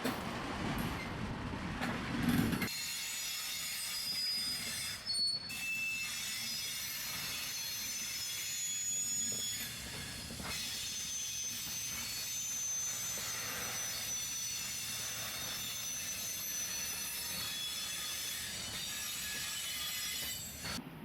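Slow-moving freight train wagons with their wheels squealing against the rails: several high squealing tones at once over a low rolling rumble. A heavier rumble in the first couple of seconds stops abruptly.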